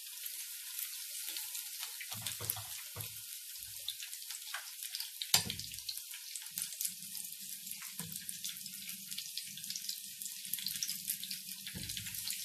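Battered cauliflower florets deep-frying in hot oil: a steady sizzle with dense crackling. A few short knocks come from the tongs against the pan, the sharpest about five seconds in, and a low hum joins about halfway through.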